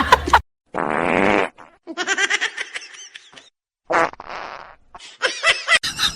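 A buzzy, fart-like noise lasting under a second, followed by short bursts of people laughing.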